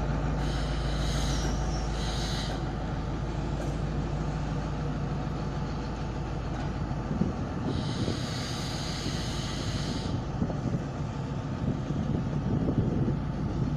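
Diesel passenger train moving through the station, its engine droning steadily, with two spells of high-pitched noise, one near the start and one about eight seconds in.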